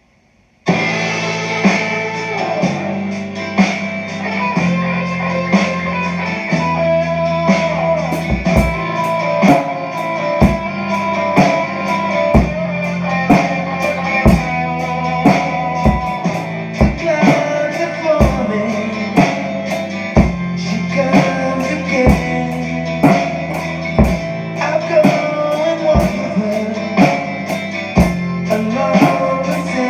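A rock song with electric guitar and bass starts about a second in. About eight seconds in, a drum kit comes in with a steady kick-drum beat and cymbals, played along with the song.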